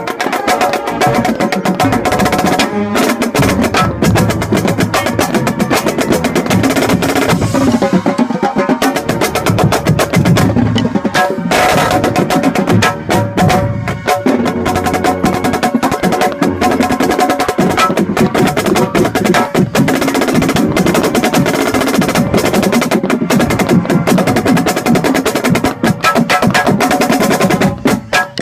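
A marching snare drum played up close: rapid strokes and rolls over the full high school marching band, with the brass holding sustained chords.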